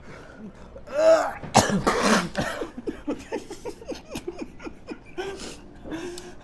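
A man coughing hard from the burn of Carolina Reaper hot chicken: two loud coughing bursts about a second in, then a run of short, rapid gasps.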